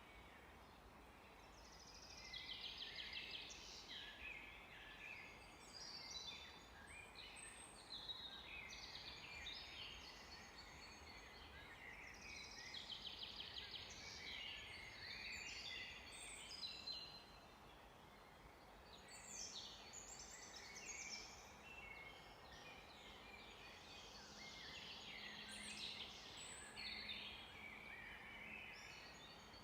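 Several songbirds singing together, faint, with overlapping chirps, whistled phrases and fast rattling trills coming and going in short bursts.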